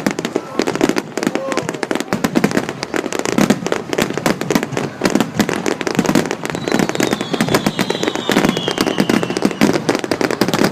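Fireworks display: rapid, continuous crackling and popping. A high, slightly falling whistle runs for about three seconds starting a little past the middle.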